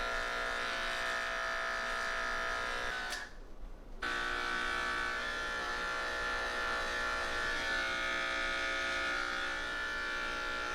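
Electric pet grooming clippers buzzing steadily while clipping a long-haired cat's coat, with a brief break about three seconds in before the buzz resumes.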